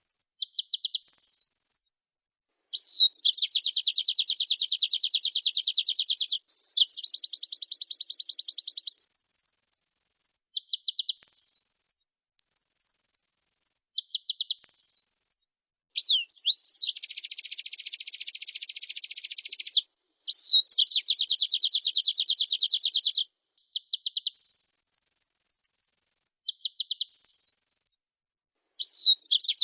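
White-eye (pleci) singing at full volume: very high, buzzy bursts alternate with long, fast trills, each trill opening with a short upward slur, with short chips in between. Phrases stop abruptly into dead silence.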